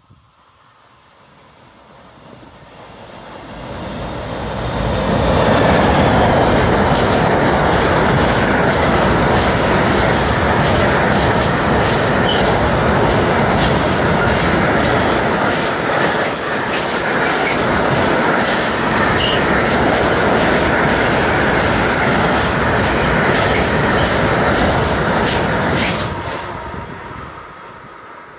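Intermodal freight train carrying lorry trailers on low wagons passing close by. It builds up over about five seconds, then gives a steady loud rumble and rattle of the wagons with many sharp clicks of wheels over the rails, and fades a couple of seconds before the end.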